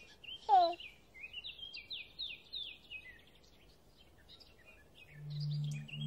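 Birdsong: a run of quick, high, falling chirps and twitters, thinning out to scattered chirps. A low, steady held note comes in about five seconds in.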